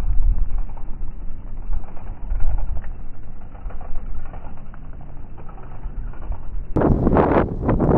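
Wind buffeting a helmet-mounted camera's microphone while cycling: a loud, uneven low rumble, turning into sharper gusts about seven seconds in.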